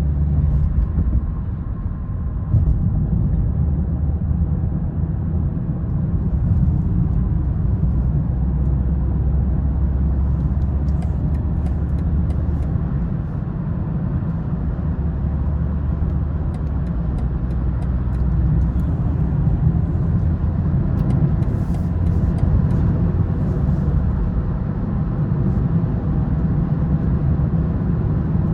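A 2020 BMW 330i's turbocharged 2.0-litre four-cylinder and its tyres making a steady low rumble while driving, with no revving.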